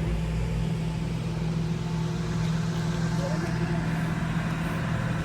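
Steady low drone of a car in motion, engine and road noise running evenly, with faint voices in the background.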